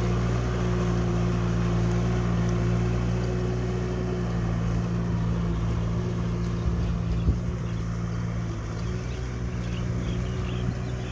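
Kubota tractor's diesel engine running steadily while plowing a rice field.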